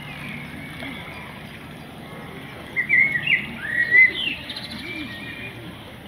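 A small bird chirping: a quick run of high, whistled notes sweeping up and down about three seconds in. It sits over a steady background hiss.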